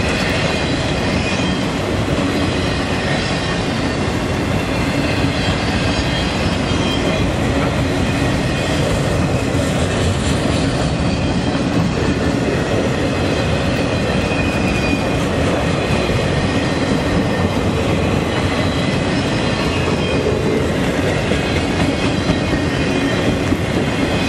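Freight train of autorack cars rolling past: a steady, loud rumble and clatter of steel wheels on the rails.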